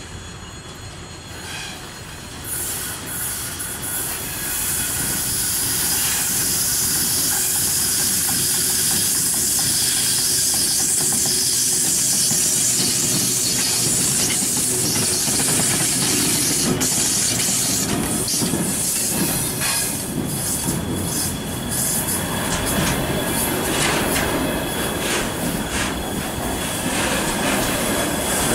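VL10U electric locomotive hauling a container freight train passes close by. The sound grows loud a few seconds in and stays loud as the locomotive and then the container flatcars roll past, with wheel clatter on the rails and a high hiss and squeal from the wheels on curved track.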